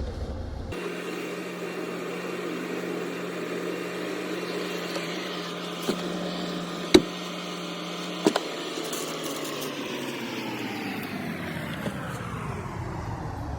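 A steady motor hum broken by a few sharp clicks. Its pitch slowly falls over the last few seconds.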